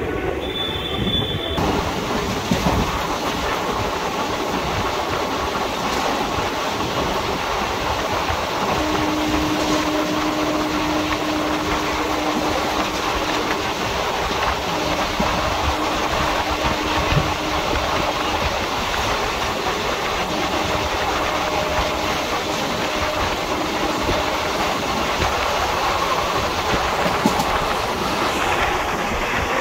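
Indian Railways express passenger train running at speed, heard from a coach doorway: a steady rumble of wheels on the track with occasional clacks over rail joints. A faint steady whine runs through the middle stretch.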